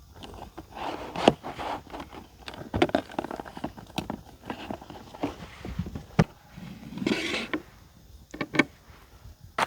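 Irregular knocks, clicks and scrapes with rustling between them, as of camping gear being handled; the sharpest knocks come about a second in, about six seconds in and near the end.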